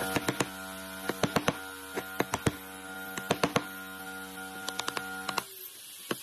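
A steady electric hum with an even set of tones that cuts off about five seconds in, under repeated sharp knocks coming in quick groups of two or three.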